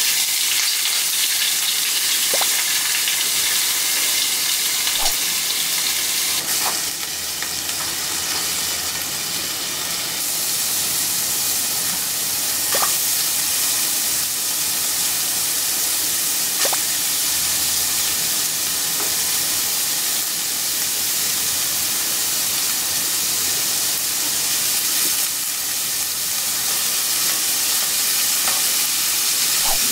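Food frying in sesame oil in a pan: a loud, steady sizzle that starts suddenly as the food goes into the hot oil, with a few sharp pops or spatters through it.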